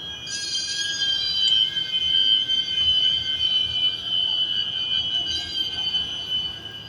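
Steady, high-pitched shrill drone of an insect chorus, with a second shriller layer joining briefly near the start and again about five seconds in.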